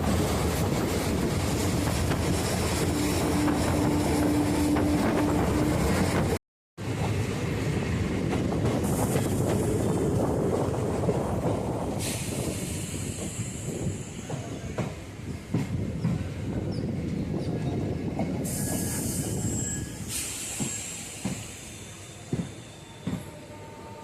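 Passenger train running on the rails with a steady rumble. After a brief cut, the noise fades as the train slows, with high wheel squeal and scattered knocks of the wheels over rail joints.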